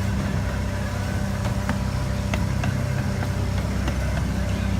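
Holiday ride train running: a steady low engine rumble with a few light clicks and rattles.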